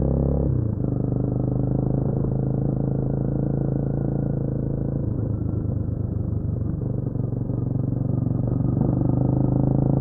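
Honda CMX250 Rebel motorcycle engine running under way. Its note drops in pitch about half a second in, then holds steady.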